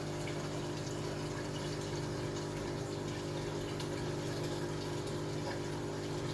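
Large aquarium's filtration running steadily: a constant pump hum under the rush and trickle of water circulating through the tank and sump.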